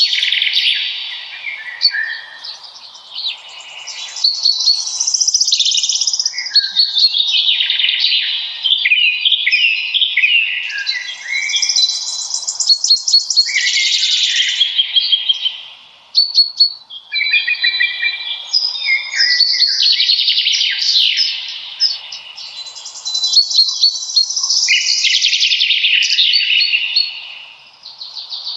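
Several songbirds singing at once, with quick trills and chirping phrases overlapping almost without a break.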